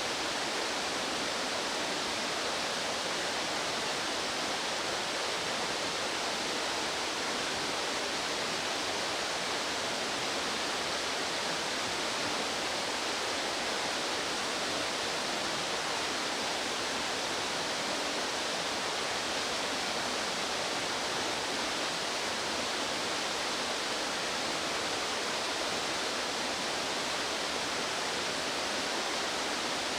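Fast-flowing mountain stream rushing over rocks: a steady, unbroken sound of water with no bird calls heard.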